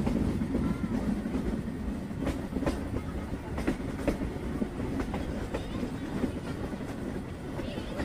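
Metre-gauge heritage train running along the track: a steady rumble with the wheels clicking over rail joints, the clicks coming in pairs about every second and a half.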